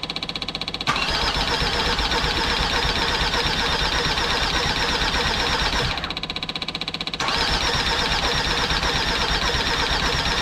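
Starter motor cranking the freshly rebuilt Mercedes OM612 2.7 CRD diesel in two long goes of about five and four seconds, the engine turning over rhythmically without catching, with a quieter fast ticking in the pause between. It fails to start because fuel is not reaching the filter from the tank.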